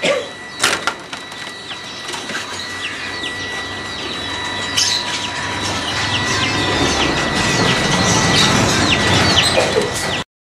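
Many small birds chirping together in quick, short downward-sliding chirps, over a steady high-pitched tone. A sharp click comes under a second in.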